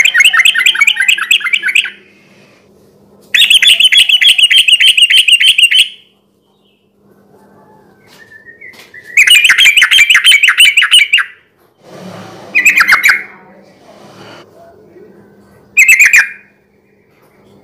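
Yellow-vented bulbul (trucukan) singing in loud bursts of fast, rattling repeated notes: three phrases of about two seconds each, then two short ones near the end.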